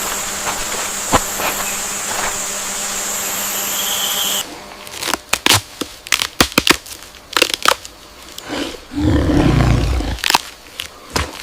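Steady insect buzzing with a high whine that cuts off about four seconds in, followed by scattered sharp clicks and snaps and a low rumble about nine seconds in.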